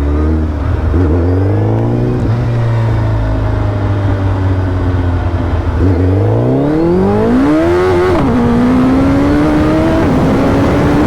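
Suzuki Hayabusa Gen 3's 1340 cc inline-four engine under hard acceleration. It holds steady revs, then about six seconds in the revs climb fast, with sharp drops at about eight and ten seconds as the quickshifter takes upshifts.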